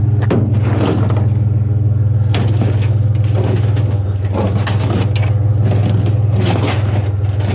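Vehicle running with a steady, loud low drone, overlaid by irregular short rattles and clanks.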